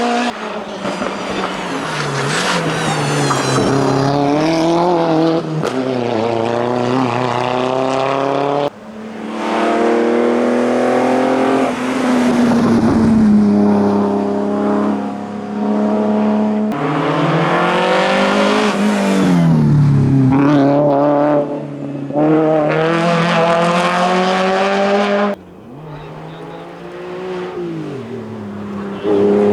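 Hillclimb racing cars at full throttle, engines revving up through the gears and dropping in pitch at each shift. Several cars are heard in turn, in short clips that cut abruptly from one to the next.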